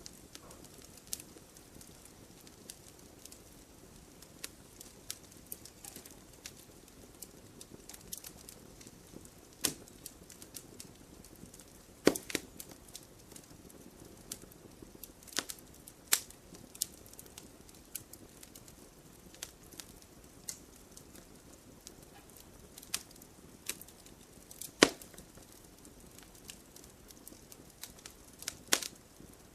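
Wood fire crackling in a fireplace: irregular sharp pops and snaps over a faint low hiss, with the loudest pops about 12, 16 and 25 seconds in.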